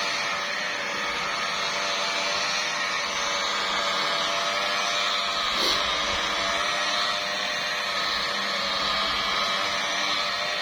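Electric car polisher running steadily as it works compound into the paint of a car hood, a steady motor whine, with one brief tap about five and a half seconds in.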